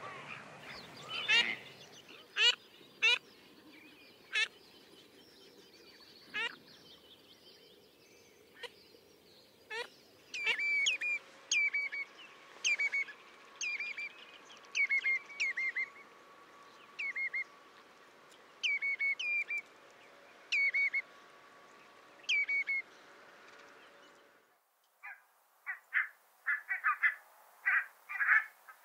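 Wetland birds calling. A few sharp chirps come first, then a redshank gives repeated piping calls, falling in pitch, about one a second. Near the end a barnacle goose yaps in a quick series of short calls.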